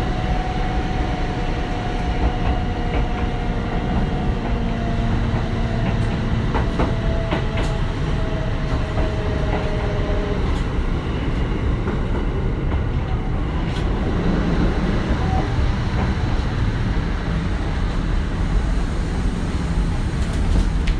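Kintetsu 1420 series electric train heard from inside the car: its Mitsubishi GTO-VVVF inverter sings a set of steady tones that slowly fall in pitch as the train slows for a station, then stop about ten seconds in. Steady wheel-on-rail rumble runs throughout, with a few sharp clicks.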